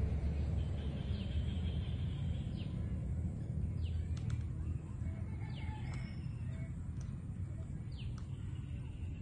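Outdoor forest ambience: birds calling with short downward-sliding chirps every second or two over a steady low rumble.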